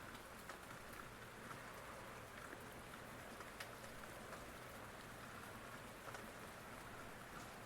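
Faint, steady rain with scattered drops ticking on a surface.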